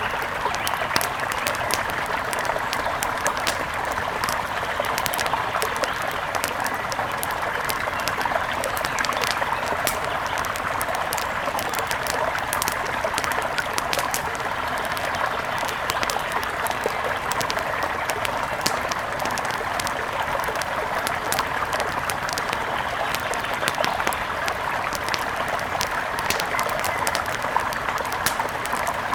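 Wood fire crackling, with frequent sharp snaps and pops, over a steady rush of flowing river water.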